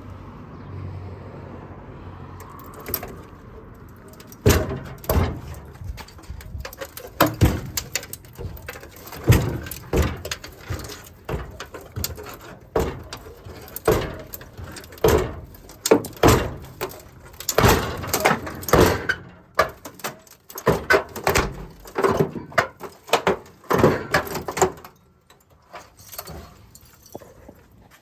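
A run of irregular metal clanks and knocks, roughly one or two a second, starting a few seconds in and stopping shortly before the end, typical of parts or tools being handled or struck during work on a steel truck frame.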